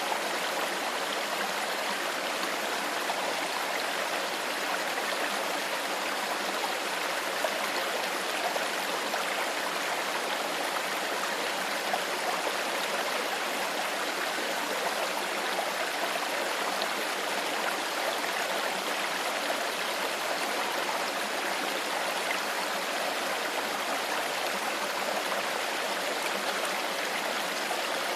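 Shallow stream flowing steadily over stones, an even rush of running water with light gurgling.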